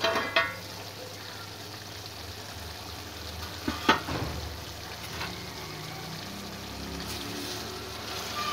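Mutton liver in masala sizzling in a karahi. A metal lid clatters and rings briefly as it is lifted off at the start, and there is a sharp metal clink about four seconds in. A ladle stirs near the end.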